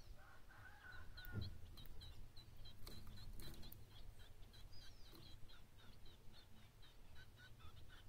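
A small bird giving a quick run of short, high chip notes, about three or four a second, faint, with a lower call and a soft thump near the start.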